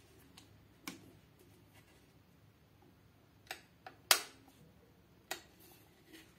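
Handling noises from an electric kettle and its packaging: five short, sharp clicks and knocks, the loudest a little after four seconds in.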